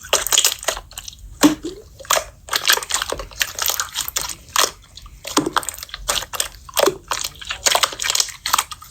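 Slime being squeezed and pressed by hand, making irregular wet squishing and crackling pops, several a second.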